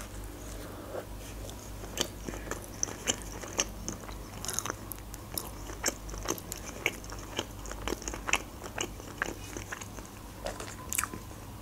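A person biting into a burger and chewing it close to the microphone: many small, irregular wet mouth clicks and soft crunches, several a second.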